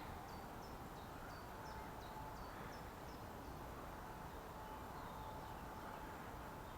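A small bird calling a quick series of short, high, downward-sliding notes, about three a second, stopping about three seconds in, over the steady low murmur of a stream.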